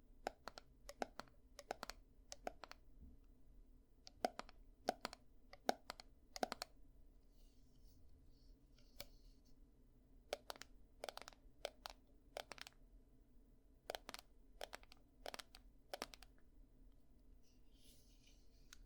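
Ear-cleaning ASMR tool work close on the microphone: irregular sharp clicks and scratches, often in quick pairs, with a couple of short soft rustles, one about eight seconds in and one near the end.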